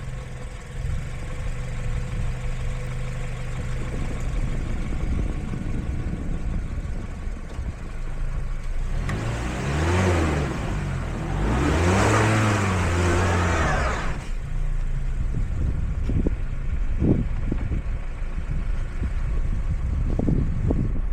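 Car engine running steadily. About nine seconds in it grows louder for roughly five seconds, its pitch rising and falling twice as it revs.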